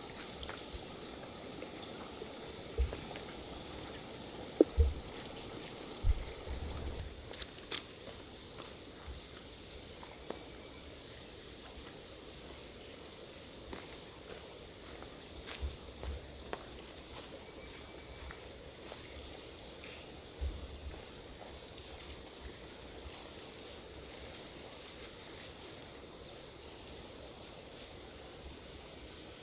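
Steady high-pitched insect chorus, one continuous even drone. A few short, dull knocks sound in the first several seconds.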